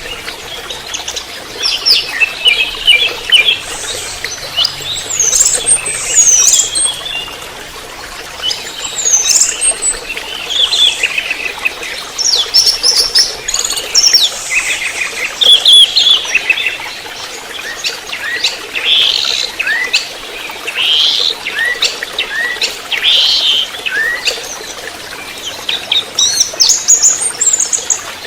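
Young orange-headed thrush singing: phrase after phrase of quick chirps and short sliding whistles, each a second or two long with brief pauses between, over a steady faint hiss.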